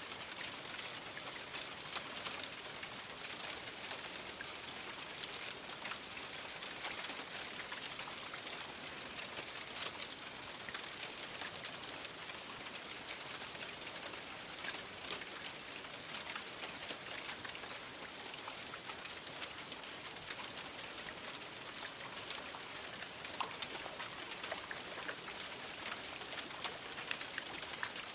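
Steady rainfall, with many individual drops ticking on a surface over the even hiss of the rain.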